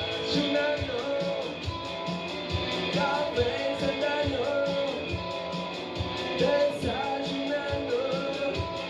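Live indie rock band playing a loud instrumental stretch of a song: electric guitar lines with pitch bends over a steady drum beat.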